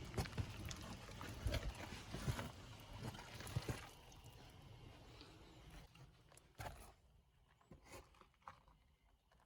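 Irregular crunching and knocking, dense for about the first four seconds, then thinning to a few scattered clicks.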